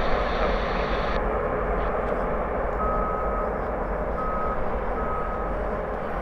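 Steady rushing engine noise of a jet airliner, its hiss dropping away about a second in, with three short high electronic beeps in the middle.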